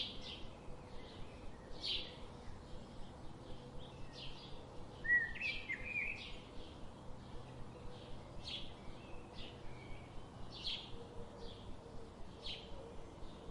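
Birds chirping: short, high chirps repeating every half second or so, with one louder call a little lower in pitch about five seconds in.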